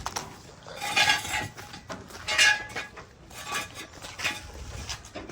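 Metal hand tools clinking and clattering, in a few separate bursts with a short metallic ring.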